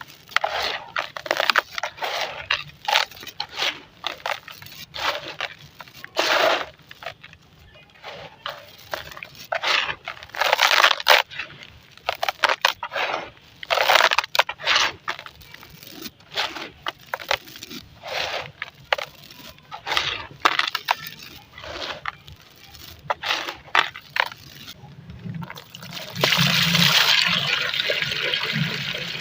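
Golden sand, dry and wet, crumbled in clumps, giving a run of irregular gritty crunches and wet squelches of varying strength. Near the end a steady wet rushing sound sets in.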